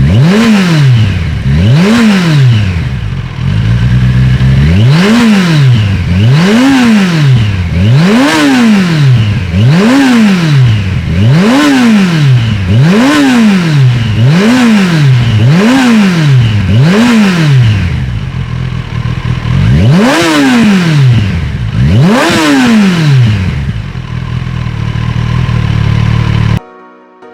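Kawasaki Ninja 1100SX inline-four engine through a TRICK STAR IKAZUCHI full exhaust system, revved over and over in quick throttle blips. Each blip rises sharply in pitch and falls straight back, about one every one and a half seconds, with two brief pauses. The sound cuts off suddenly just before the end.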